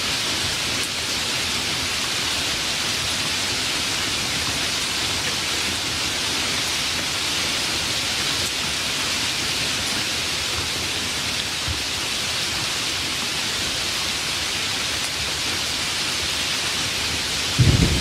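Steady, even rain. Near the end a loud low rumble of thunder suddenly begins.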